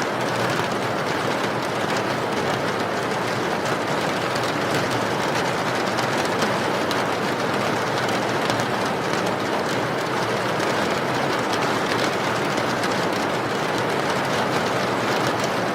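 Steady rain: an even hiss with a fine patter of drops, unchanging throughout.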